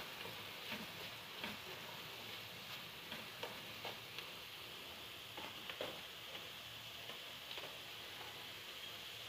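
Chicken and carrot strips frying with a faint steady sizzle in a wok-style pan. A spatula scrapes and taps against the pan now and then as the food is stirred.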